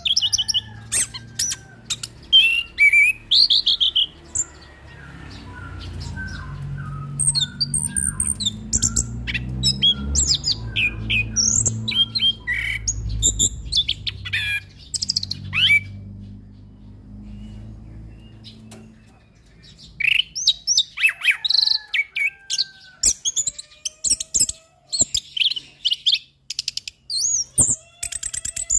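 A male chestnut-capped thrush (anis kembang) singing a fast, varied song of sharp whistles, trills and clicks. The song breaks off for a few seconds just before the two-thirds mark and then starts again. A low rumble runs underneath through the middle part.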